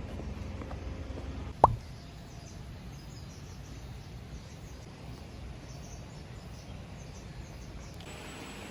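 Steady background ambience with a few faint high chirps, broken by a single sharp knock about one and a half seconds in.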